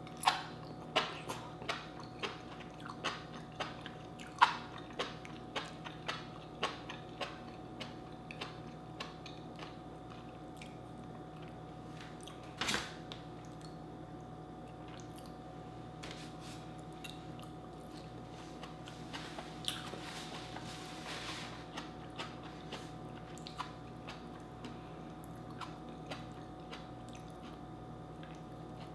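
Close-up eating sounds of a person chewing soft boiled vegetables: wet mouth clicks and smacks, most frequent in the first several seconds, with a single louder click about thirteen seconds in and a short hissing noise around twenty seconds, then sparser clicks.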